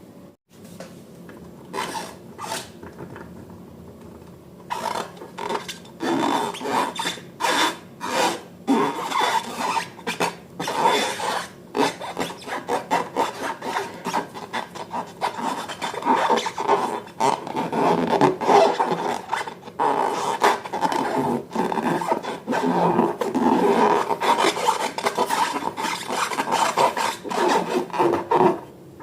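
Slime being mixed and worked: a rapid run of rubbing, scraping strokes that starts in earnest about five seconds in and keeps going almost to the end, after two brief strokes near the start.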